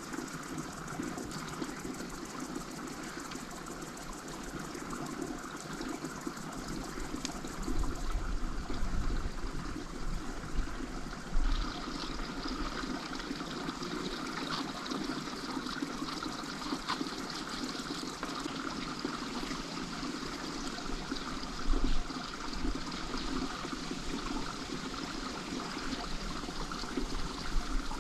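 Water running and trickling steadily, with a few low bumps about a third of the way in and again later.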